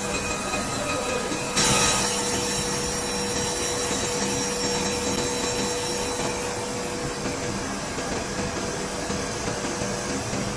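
Workshop machinery running steadily with a constant hum, and a short burst of louder hiss about one and a half seconds in.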